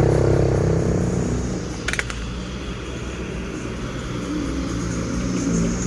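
Medium truck engines running, their rumble loudest at first and easing off over the first second or so as they pass, then a steadier, lower drone. A single sharp click comes about two seconds in.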